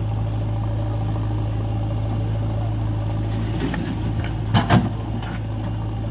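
Diesel engine running steadily, with two sharp knocks in quick succession about four and a half seconds in.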